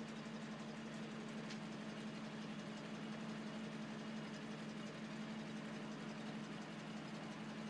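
Restored 1962 Toyota Land Cruiser FJ40's inline-six engine running steadily with an even hum, most likely at idle.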